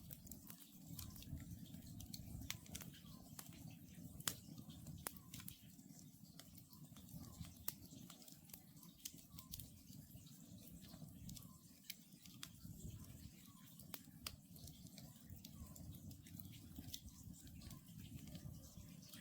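Wood campfire crackling, with sharp irregular pops over a low steady rumble of the burning logs. An oriental scops owl calls faintly, short repeated notes.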